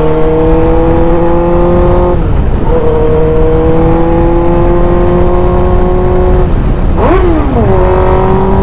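Suzuki GSX-R600's inline-four engine under way, its pitch climbing slowly as the bike accelerates. The pitch drops at a gear change about two seconds in, climbs again, then swoops quickly up and down near the end before settling to a steady note.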